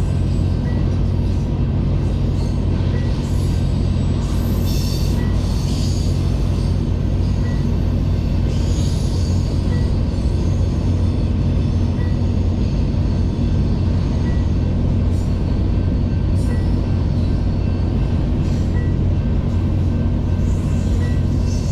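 BNSF freight train rolling past: a steady, loud rumble of wheels and cars, with brief high-pitched wheel squeals here and there. A faint short tick comes about once a second.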